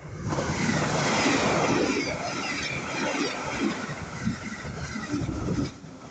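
A JR East E259 series Narita Express electric train, two six-car sets coupled together, passing at speed. A loud rush of wheels on rail starts suddenly, stays strong as the cars go by, and eases near the end.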